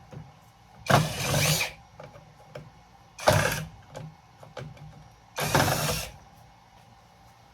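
Cordless power drill running in three short bursts, each under a second, as it spins screws out of a breaker box.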